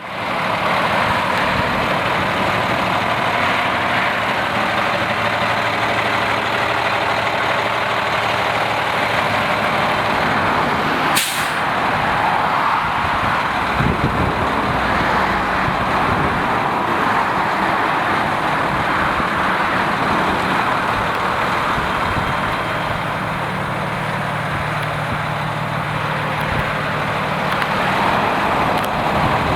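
Sport Chassis M2 hauler truck's diesel engine running steadily, with one short sharp air hiss from its air brake system about eleven seconds in.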